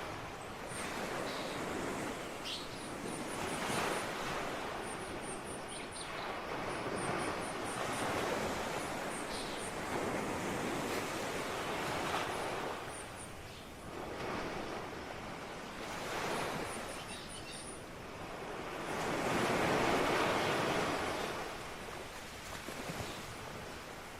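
Ocean surf washing in, a noisy rush that swells and ebbs every few seconds, with the biggest wave about twenty seconds in. Faint high chirps in quick runs of three to five sound above the surf several times.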